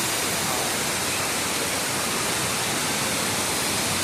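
Waterfall: heavy water pouring down and crashing, a steady, dense roar.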